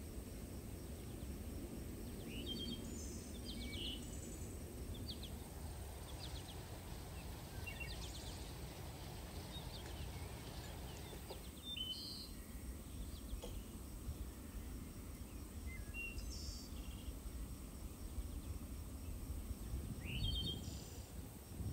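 Birds chirping now and then, short high calls scattered over a steady low outdoor rumble.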